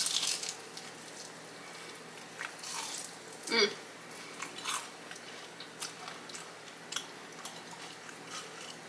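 Crunchy biting and chewing of Flamin' Hot Cheeto-crusted fried chicken. A crisp crackle comes at the start, followed by a few more crunches and scattered small wet clicks of chewing.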